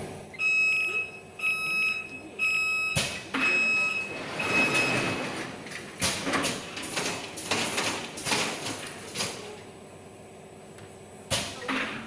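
An electronic beeper sounds a run of short, high beeps about a second apart, then a series of rough sliding and scraping noises with a couple of sharp clicks.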